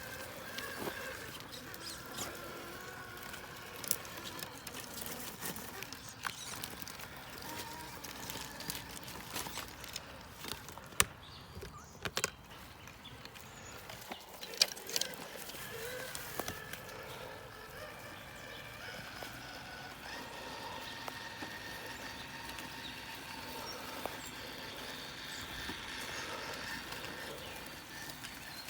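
Traxxas TRX-4 RC crawler driving slowly over rough ground, its electric motor and geartrain whining at a pitch that wavers with the throttle, with scattered clicks and clatter from the tyres and chassis on stones. A few sharper knocks come in the middle.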